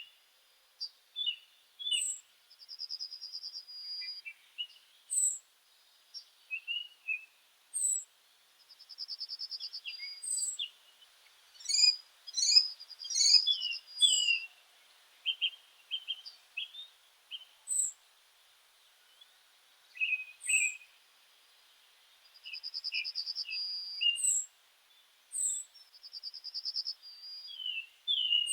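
Several small birds singing and calling together. One gives a thin, very high note about every two seconds, and another repeats a fast trill of about a second. Scattered lower chirps and a louder cluster of calls about halfway through run among them.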